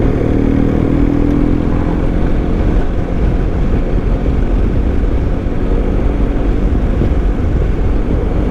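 BMW GS Adventure motorcycle riding at a steady speed: the engine running with a dense, even rumble of engine and road noise.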